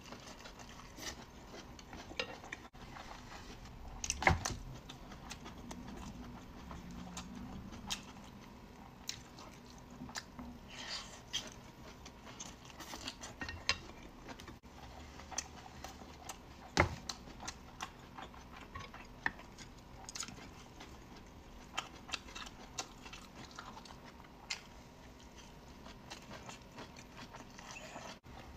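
A person chewing a roll of thin wrapper and shredded potato salad, with small wet mouth clicks scattered throughout and a few louder sharp clicks, the loudest about four seconds in and again about seventeen seconds in.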